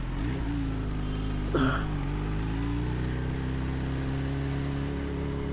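Kawasaki Z H2's supercharged inline-four engine running steadily at low revs, pitch holding nearly constant.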